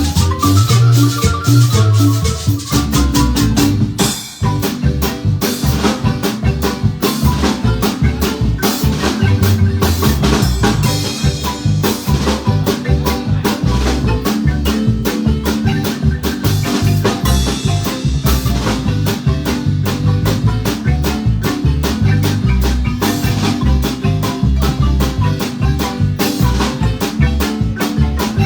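Marimba band playing a fast, rhythmic piece over a strong bass line, with percussion and shakers; the music dips briefly about four seconds in.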